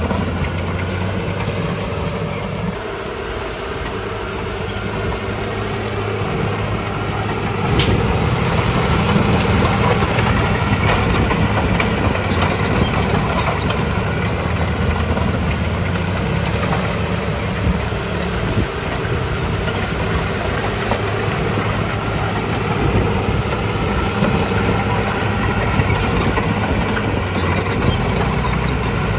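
Bulldozer's diesel engine running steadily, then working harder and louder from about eight seconds in, with a few sharp metallic clanks.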